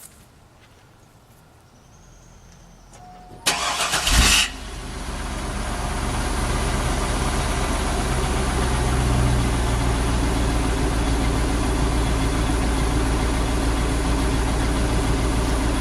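A 2000 GMC Yukon's V8 engine being started: after a few quiet seconds the starter cranks briefly, the engine catches, and it settles into a steady idle.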